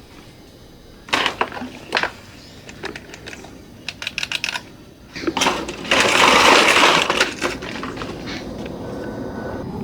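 Hard plastic toy parts knocking and clicking: a few sharp knocks, a quick run of clicks, then a louder rattling, scraping burst about six seconds in.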